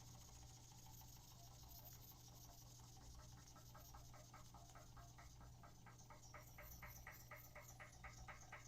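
Weeden No. 10 toy steam engine running on steam, faint: an even ticking rhythm of about five beats a second fades in after a few seconds and grows clearer, over a faint steady low hum.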